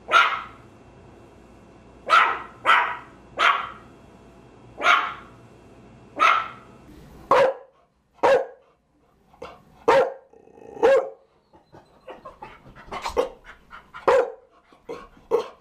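A Maltese barks in sharp, high, spaced barks over a faint background hum. About halfway through, a different recording of a Chow Chow takes over with lower-pitched barks and a few smaller yaps between them.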